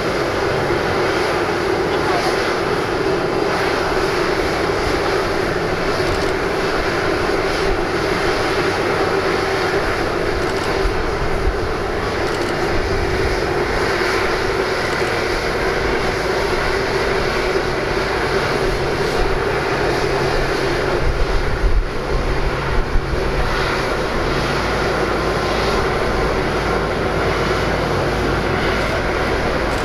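Steady jet noise from an Airbus A330-300 airliner during pushback, a constant drone and rush with a strong hum in the lower-middle pitch. A few brief louder bumps come about three-quarters of the way through.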